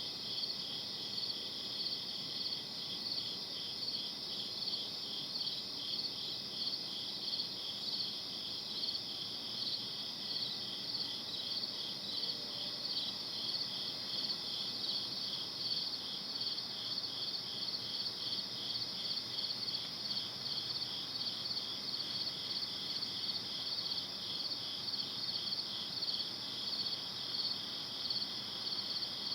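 Night chorus of crickets chirping in a steady, even pulse, high-pitched and unbroken.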